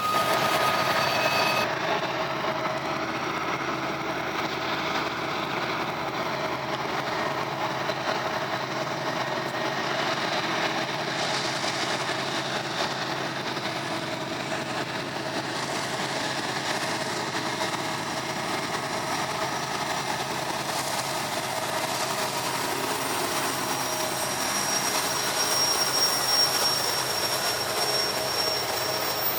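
Diesel freight locomotives running, a steady engine drone with a faint high whine coming in near the end.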